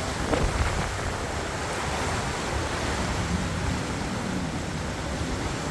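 Steady rush of high water crashing over a river dam spillway.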